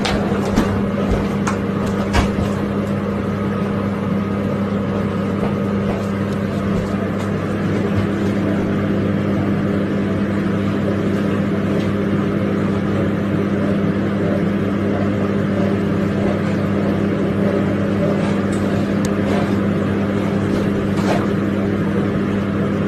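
A motor running steadily, giving an even low drone that holds one pitch, with a few sharp clicks in the first couple of seconds.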